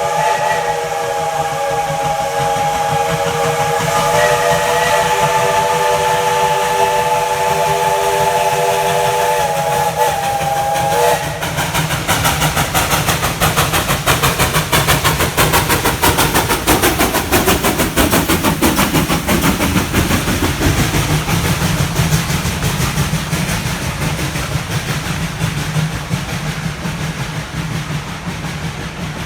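Steam locomotive's chime whistle blowing one long blast of several tones at once, ending about eleven seconds in. The locomotive's rapid exhaust beats and running noise follow, fading near the end as the train moves off.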